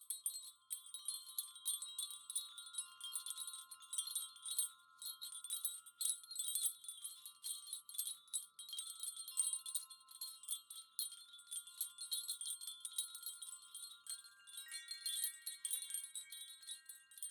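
Wind chimes tinkling: a dense, irregular run of light metallic strikes, with several clear tones ringing on and overlapping. New, higher tones join near the end.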